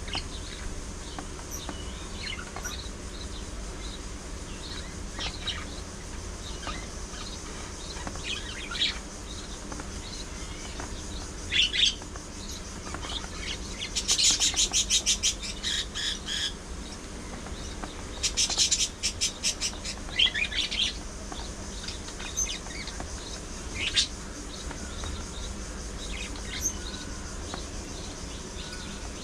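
Budgerigars chirping, with scattered short calls and two bursts of fast, rapidly repeated chatter about halfway through, over a steady low hum.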